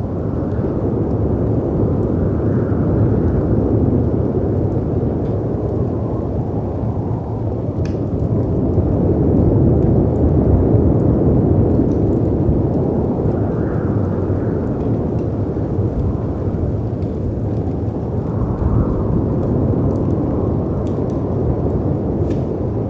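Layered storm ambience: a dense, low rushing of wind and sea surf that swells and eases, loudest about halfway through, with faint scattered crackles from a fireplace.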